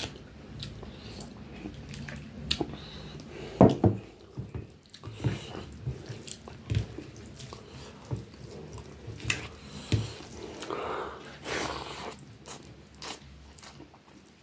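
Close-up chewing of a man eating rice and curry by hand, with scattered sharp wet mouth clicks, the loudest about four seconds in.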